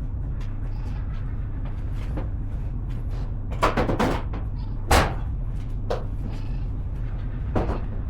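Truck engine running just after starting, on its first start since the rear main seal and oil pan gasket were replaced, with a rough, uneven low rumble. Several sharp, loud cracks come about halfway through and again near the end.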